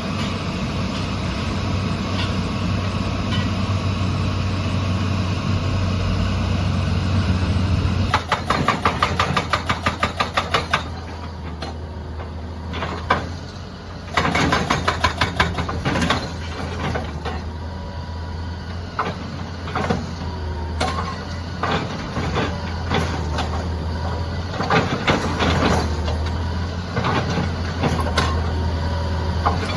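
Excavator's diesel engine running steadily, then its hydraulic breaker hammering in rapid runs of blows, about four to five a second, from about eight seconds in. Scattered single knocks follow through the rest.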